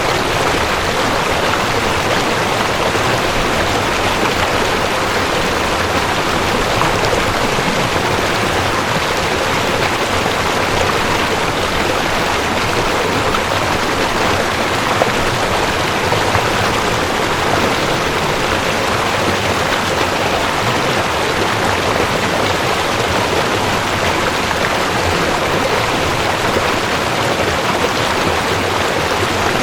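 Cold mountain stream rushing over rocks: a steady, even rush of water.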